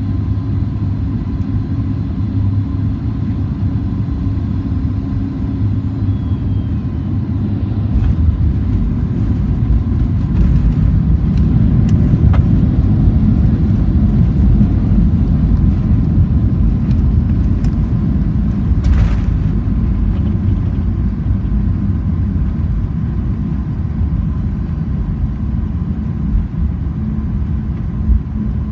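Cabin noise inside a Boeing 737 MAX 8 on landing: a steady rumble of engines and airflow that turns suddenly louder and rougher about eight seconds in, as the jet touches down and rolls out on the runway, then slowly eases. A short sharp knock sounds part way through.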